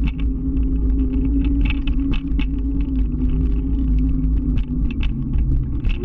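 Motor scooter running at a steady engine speed while riding, with a heavy low rumble and a rapid, irregular patter of clicks over it.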